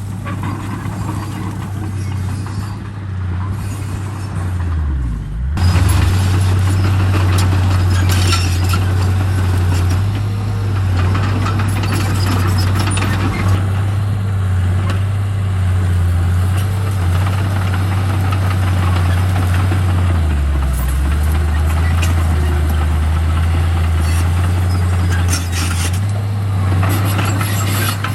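Komatsu D31P bulldozer's diesel engine working under load, a steady low drone that sags and then picks up and gets louder about five seconds in, and sags again around twenty seconds in before recovering. A single sharp knock is heard about halfway through.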